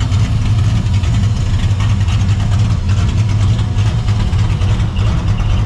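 Cammed, Procharged 5.4 L V8 in a 1999 Mustang GT idling with a choppy, uneven lope.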